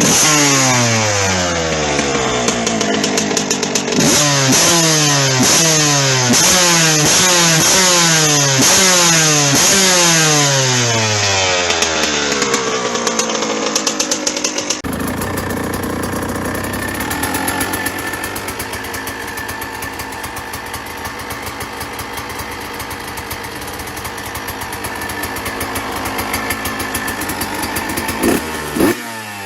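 Suzuki RM 125 two-stroke motocross engine with an aftermarket exhaust, revved up and dropping back over and over, about once a second. About halfway through, a different recording begins, in which the bike runs steadily at idle, then gives a short blip of the throttle near the end.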